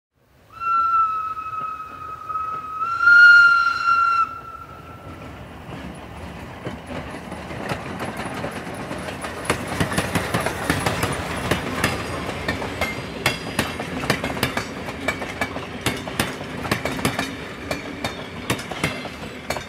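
Train horn sounding for about four seconds, stepping slightly higher in pitch partway through. It gives way to the running rumble of a Talgo passenger carriage on the move, with a rapid clatter of wheels over rail joints.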